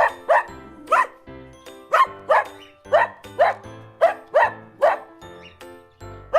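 Dog barking about ten times in short groups of two or three, over children's background music.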